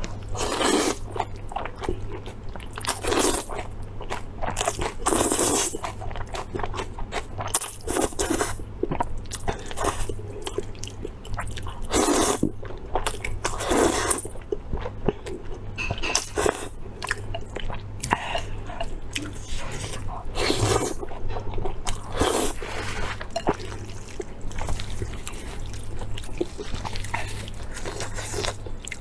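Close-miked eating: a person biting and chewing food, irregular bites and chews every second or two, with a faint steady low hum underneath.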